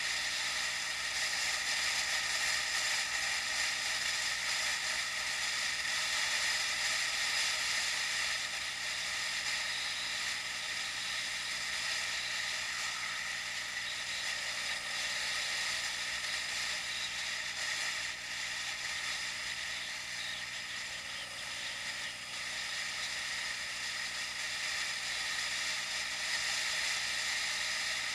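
Steady hiss of wind and riding noise picked up by an action camera's microphone on a moving bicycle, even throughout with no distinct sounds standing out.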